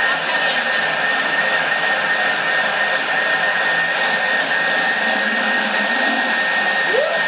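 Industrial blender motor running at full speed, steady, with a constant high whine, as it purées cooked beetroot, onion, celery and stock into soup.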